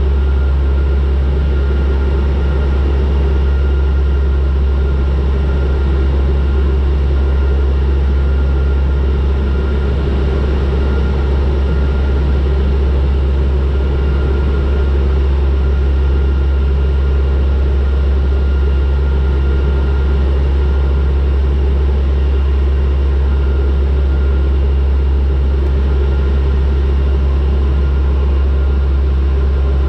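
Turboprop airliner's engines and propellers heard from inside the cabin: a steady, loud low propeller drone with a thin engine whine above it, unchanging in flight.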